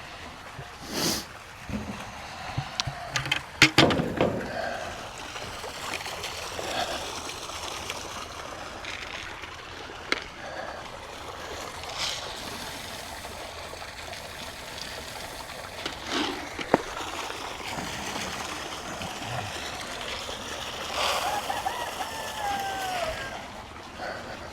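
A rooster crows once near the end, over a steady rushing noise. A quick run of sharp clatters comes about three to four seconds in.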